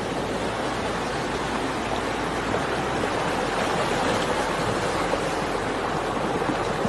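Floodwater rushing steadily, a continuous even wash of water noise.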